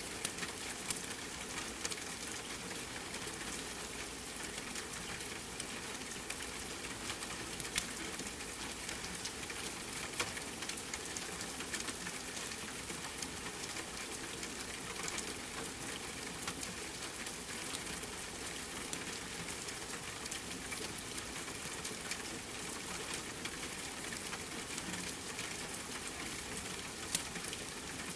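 Steady rain mixed with the crackle of a wood fire: an even hiss with many small sharp ticks scattered throughout.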